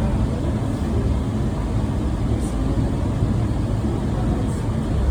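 Steady low rumble inside a moving people-mover tram car as it travels between stations.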